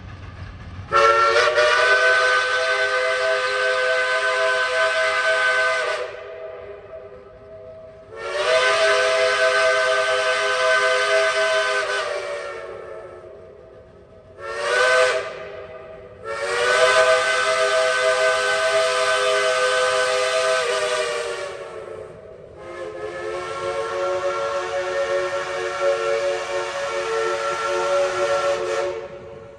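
Steam locomotive chime whistles, from a Shay and Heisler doubleheader, blowing long, long, short, long. A fifth long blast follows at once on a slightly different chord. A low steam hiss runs underneath.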